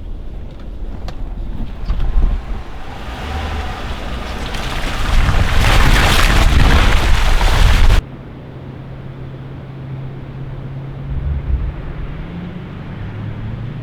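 A rushing noise that builds for several seconds and cuts off suddenly about eight seconds in. It gives way to a steady low vehicle engine hum that rises a little in pitch near the end.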